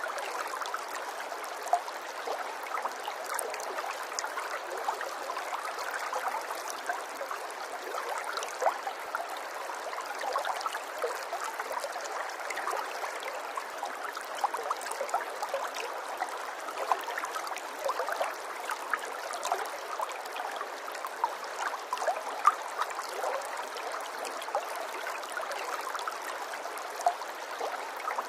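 Water trickling and burbling in a small stream: a continuous, even flow with many small splashes and gurgles.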